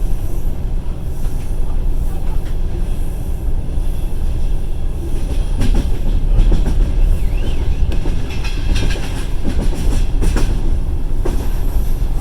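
Passenger train wheels rumbling steadily on the track, heard from inside the carriage, with clusters of sharp clicks and knocks around the middle and later on as the wheels run over rail joints.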